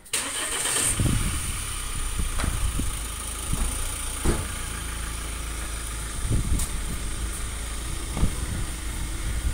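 Mahindra Scorpio's diesel engine idling steadily, with a few light knocks.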